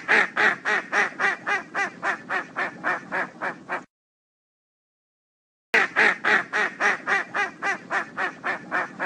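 A duck quacking in a fast run of about four quacks a second, fading slightly over about four seconds. Then comes a gap of silence, and a second, matching run of quacks begins about six seconds in.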